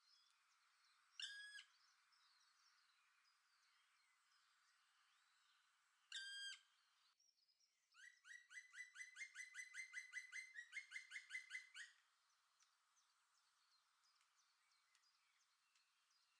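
A woodpecker calls: two single drawn-out calls a few seconds apart, then a fast run of repeated sharp calls, about eight a second, for some four seconds with a short break midway. Faint small-bird twittering sounds behind.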